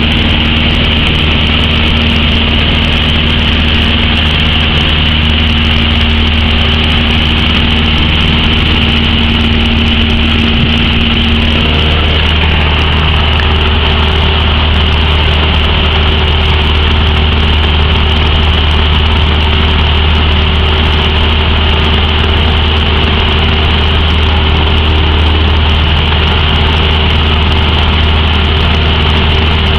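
Cessna light aircraft's piston engine and propeller running steadily, a loud continuous drone with hiss. About twelve seconds in, one steady tone in the engine note stops and a higher one comes in.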